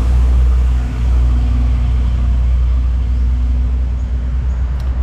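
Motor vehicle engine running steadily, a loud low rumble with a faint steady hum above it.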